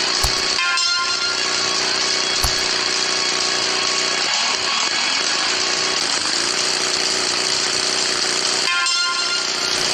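Motorcycle engine running steadily under dense, loud noise. Short pitched horn-like tones sound about a second in and again near the end.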